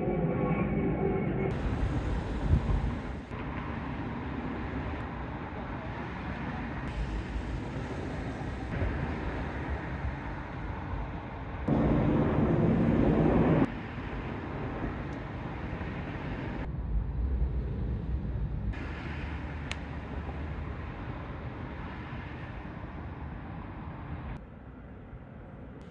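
Outdoor ambience dominated by a low rumble of road traffic, with a louder passing vehicle about twelve seconds in. The background shifts abruptly several times.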